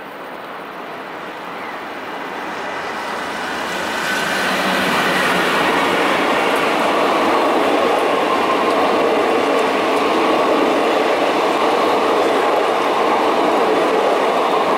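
BB 27300 electric locomotive and its double-deck commuter coaches passing close by. The rumble of wheels on rail grows louder over the first four seconds, then holds steady as the coaches go by.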